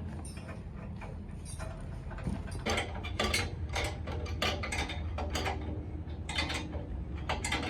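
Metal clinking and clanking, as of tools and parts knocked together, over a steady low hum of running machinery. The knocks come thicker and louder from about two and a half seconds in.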